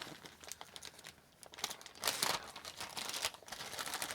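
Handling noise from AR rifle parts being moved and turned by hand: scattered small clicks and rustling, with a louder rustling scrape about two seconds in.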